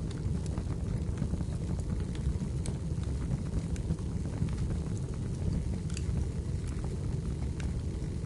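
Wood fire burning in a fireplace: a steady low rumble of the flames with scattered sharp crackles and pops from the burning firewood.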